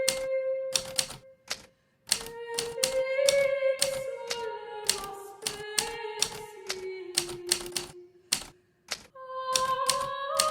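Hermes Baby portable typewriter being typed on: irregular runs of key strikes, with two short pauses, about one and a half seconds in and near eight and a half seconds. Underneath is a slow background melody of held notes.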